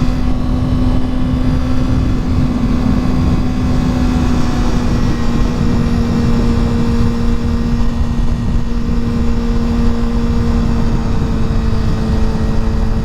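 Honda CBR sport bike's engine running at steady revs while cruising, holding an almost constant pitch, with a dense low wind rumble on the rider's microphone.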